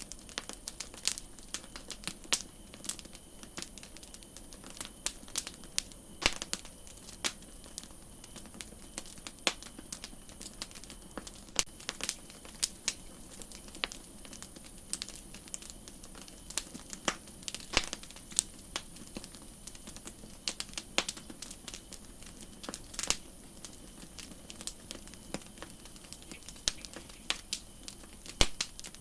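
Wood campfire crackling: irregular sharp pops and snaps over a faint steady high hiss, the hiss growing louder about a third of the way in and dropping back shortly before the end.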